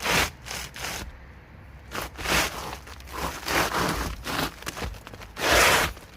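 Rough scraping and rustling against the gritty asphalt roofing of a garage roof, in a handful of short irregular bursts, the loudest about five and a half seconds in.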